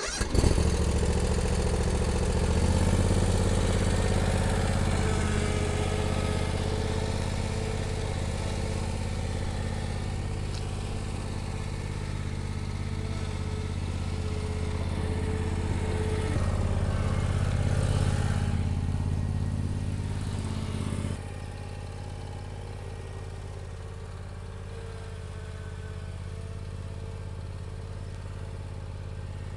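Bad Boy Elite zero-turn lawn mower engine starting up and running steadily. It gets louder a couple of seconds in, then drops to a lower, quieter run about 21 seconds in.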